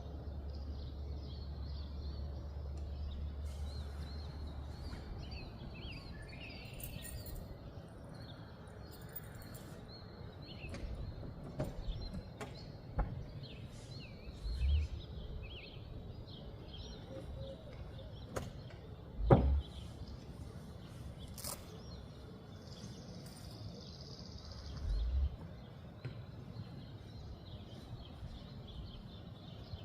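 Small birds chirping repeatedly over a steady background noise, with a few dull thumps and one sharp knock about two-thirds of the way through.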